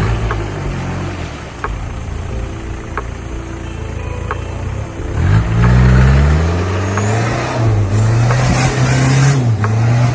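Off-road 4x4's engine running at low revs, then revving up hard about five seconds in and held at high revs under load, with a broad rushing noise rising with it.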